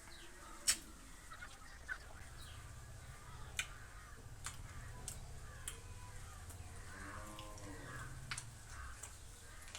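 Person chewing banana quietly, with several sharp mouth clicks spread through. Faint calls of domestic fowl sound in the background over a low hum.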